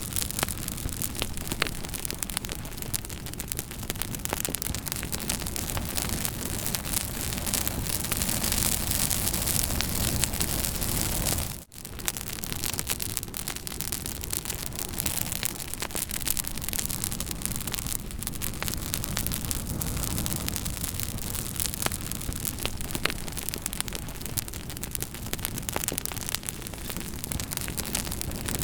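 Campfire burning with a steady hiss and rumble and frequent small crackles and pops. The sound cuts out for a split second about twelve seconds in, then carries on.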